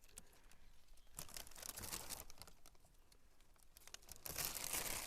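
Dry leaves and brush rustling and crackling in uneven bursts, loudest a little after four seconds in.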